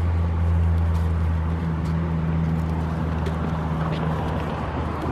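A vehicle engine running at a steady idle, its low hum slowly fading.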